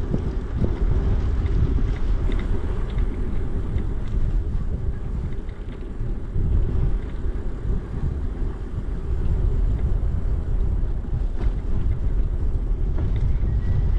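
Riding noise from a bicycle: a steady low rumble of tyres rolling over the trail and wind on the microphone, with a few faint clicks and rattles.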